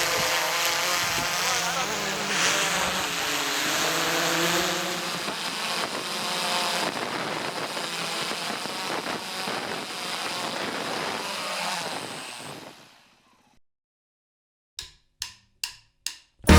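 Dirt bike engine running and revving, its pitch rising and falling, then fading out about twelve seconds in. After a brief silence, four quick, evenly spaced clicks come near the end.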